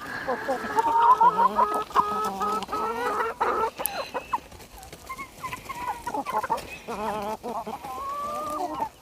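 A flock of chickens clucking busily as they feed on fruit and vegetable scraps, with many short overlapping calls.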